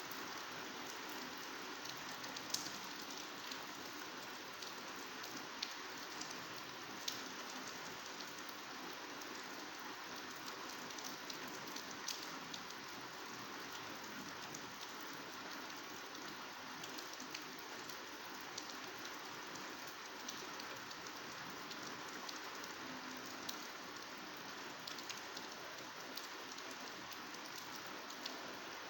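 Heavy downpour falling steadily on lush vegetation, a dense even hiss of rain with scattered louder drop hits.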